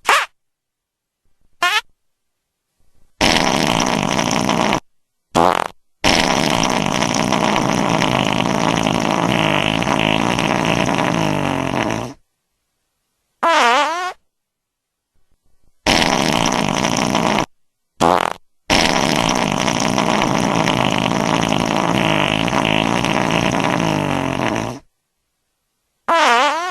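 A series of about ten fart sound effects, separated by dead silence: mostly short ones, two long ones of about six seconds each, and a couple whose pitch dips and then rises again.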